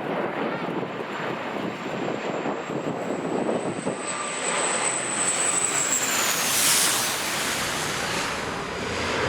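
Jet airliner passing close by. Its high engine whine rises slowly, then drops in pitch as the aircraft goes past about two-thirds of the way through, over a steady engine rush and wind buffeting the microphone.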